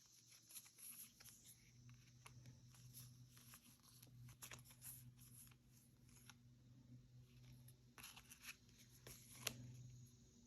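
Faint rustling and light ticks of paper being handled, with a few slightly louder ticks near the end, over a faint steady low hum.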